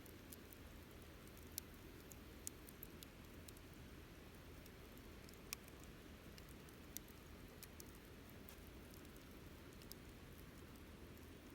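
Wood fire crackling: a low steady hiss with sharp pops at irregular times, a few of them clearly louder than the rest.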